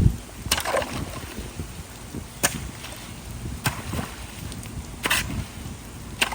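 Running water and wind noise, broken about five times by short sharp knocks or scrapes as debris is worked out of a clogged culvert.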